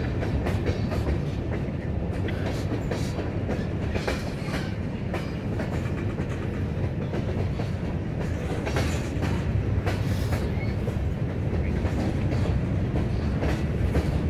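Freight cars (tank cars and covered hoppers) rolling past at trackside: a steady low rumble of steel wheels on rail, broken by frequent irregular clicks and clanks.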